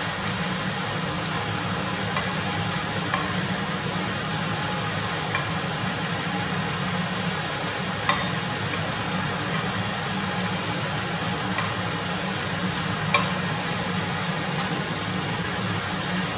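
Scallops pan-searing in a nonstick frying pan, with a steady sizzle over a low hum. Several sharp clicks come as metal tongs turn the scallops and knock the pan.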